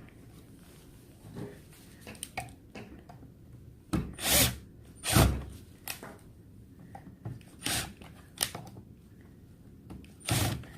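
Irregular knocks, clicks and rubbing as electric fan parts are handled and fitted together during a part replacement. The loudest knocks come in a cluster about four to five seconds in, with a few more later.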